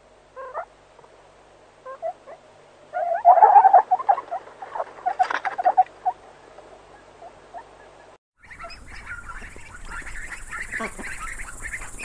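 Ring-tailed lemurs giving a flurry of short calls that peaks about three to six seconds in. After a brief break, ducklings peep rapidly and continuously over a faint hiss.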